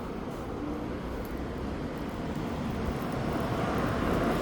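A steady, low rushing noise without clear tones, slowly growing louder toward the end.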